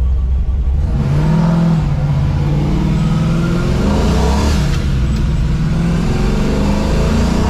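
Muscle car's custom dual exhaust as the engine picks up speed: a low rumble that rises about a second in, with pitch sweeping around four seconds in and again near the end.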